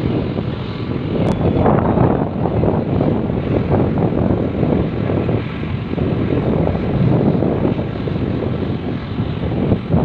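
Loud, steady engine drone with a rushing rumble that swells and eases but never stops.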